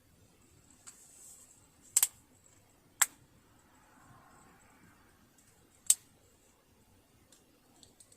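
Sharp clicks and taps of tools and small metal parts being handled during sewing-machine disassembly: a double click about two seconds in, single clicks a second later and near six seconds, and a soft rustle in between.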